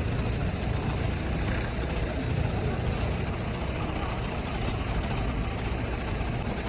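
Heavy truck's diesel engine running steadily with a low rumble.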